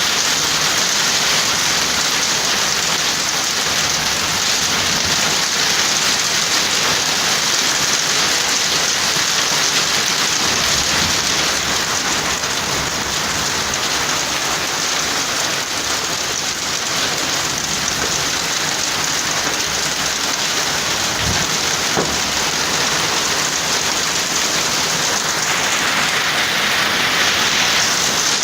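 Hail and heavy rain pelting down steadily, a dense hiss of countless small impacts.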